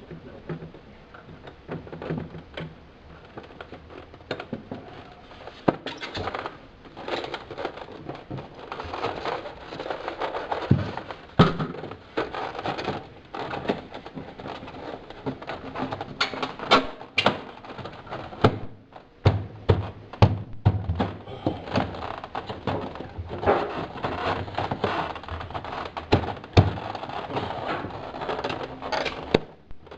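Irregular clicks, knocks and light scraping of plastic and styrofoam refrigerator parts being handled and fitted back into place inside the fridge.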